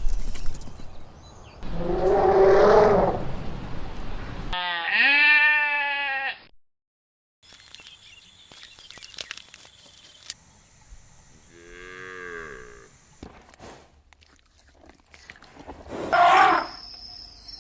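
Cattle mooing: several separate drawn-out calls, each cut off abruptly between clips, with a short silent gap partway through.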